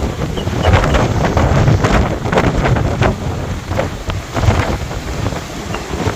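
Strong cyclone wind gusting hard against the microphone, a loud irregular rumble, with sea surf beneath it.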